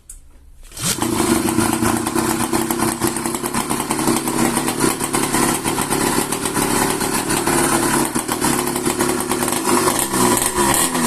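Chinese F60 two-stroke engine on a Riga-7 moped catching about a second in and then running loudly and steadily. Near the end its pitch rises and falls as the throttle is worked.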